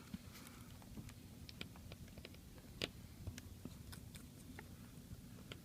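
Faint, irregular clicks and ticks of small hand tools against a smartphone's internal parts as the motherboard screws are being removed, over a low steady hum.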